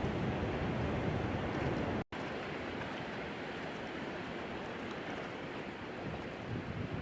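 Steady rushing outdoor noise of wind on the microphone, with a sudden brief gap of silence about two seconds in.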